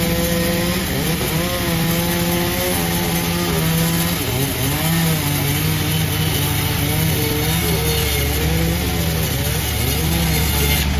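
Panda36 chainsaw cutting through a jackfruit log, its engine pitch dipping and recovering as the chain bites into the wood, more unevenly in the second half.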